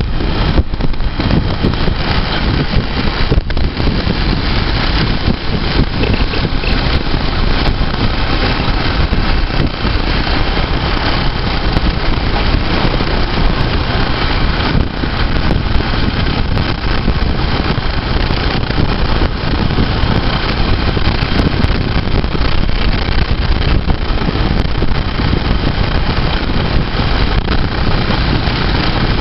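Motorcycle engine running steadily while riding along the road, loud and even with no let-up.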